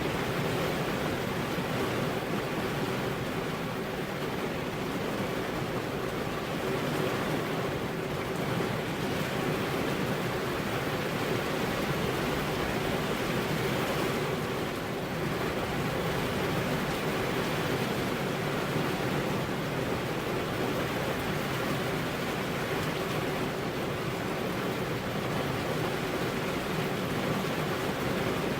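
Steady rain falling on a car's glass windows: an even, unbroken hiss with no thunder. A faint steady hum sits underneath.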